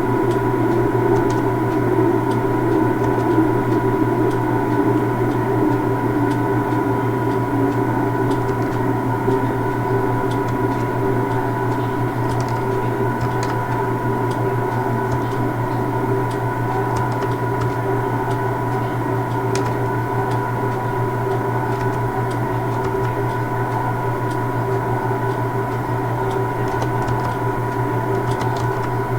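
Steady hum from a standing train's equipment, holding several fixed tones with no change in pitch, and faint scattered ticks over it.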